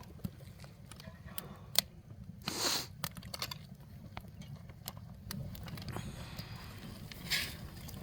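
Wood fire burning, crackling with scattered sharp pops over a steady low rumble, with two short louder rushes of noise about a third of the way in and near the end.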